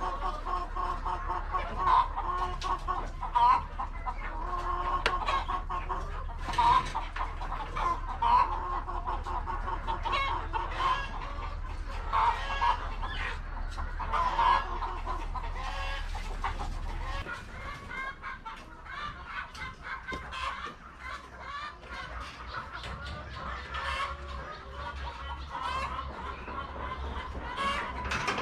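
A flock of laying hens clucking, many short overlapping calls with sharper squawks here and there, over a steady low hum that drops away about two-thirds of the way through.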